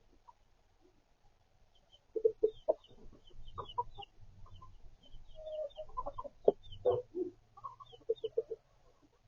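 Backyard hens clucking in short irregular runs after a quiet start, with faint high peeping of chicks above them.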